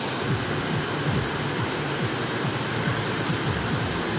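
River water rushing, a steady dense noise with a churning low end.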